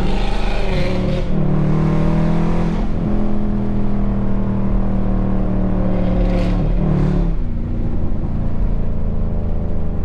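Car engines running under way, a loud, steady low drone with several held tones. Short rushes of noise near the start and again around six to seven seconds in, like a car passing or revving.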